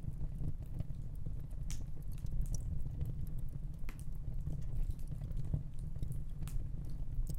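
Fire burning in a fireplace: a steady low rumble of flames with a few scattered crackles and pops.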